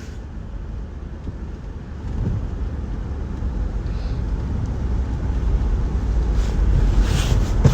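Low rumble of a 2009 Jeep Commander's 5.7 Hemi V8 and drivetrain, heard from inside the cabin while driving in snow, growing louder over the last few seconds.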